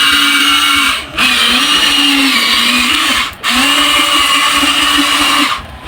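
Huina 1593 RC excavator's electric motors and gearboxes whining as the machine works, in three runs of about two seconds each with short breaks about a second in and just after three seconds. The pitch dips and wavers with the load, and the whine stops near the end.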